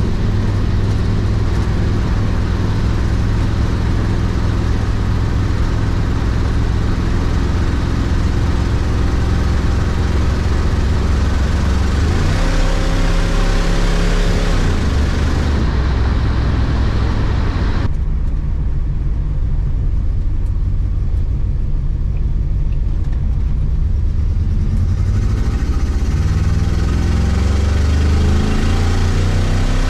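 1972 Oldsmobile Cutlass's 350 Olds V8 running as the car is driven, with a steady drone. The engine pitch rises about twelve seconds in and again near the end as it revs up.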